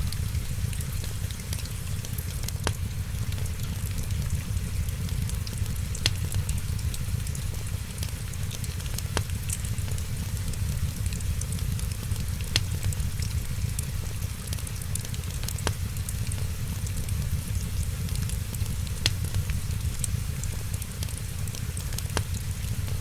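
Wood fire crackling in a fireplace: sharp pops every few seconds over a steady low rumble and fine hiss.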